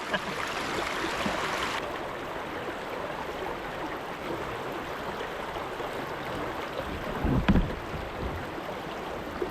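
Shallow creek water running steadily over rocks, with a single knock about three-quarters of the way through.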